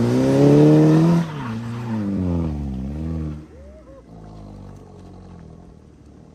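Audi TT RS's turbocharged five-cylinder engine revving hard as the car pulls away from a standstill. The pitch climbs for about a second, drops, then rises and dips again. About three and a half seconds in it falls away to a faint, distant engine sound as the car drives off.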